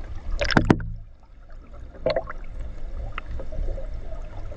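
A few sharp knocks: a quick cluster about half a second in, then single ones about two and three seconds in, over a low rumble and faint running water.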